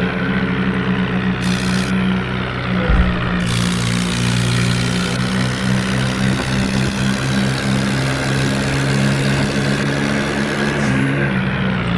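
Diesel tractor engine running steadily, with a brief low thump about three seconds in.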